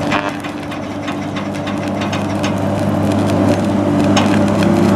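A train running, with a steady low hum of its motors and many sharp clicks and rattles, growing gradually louder.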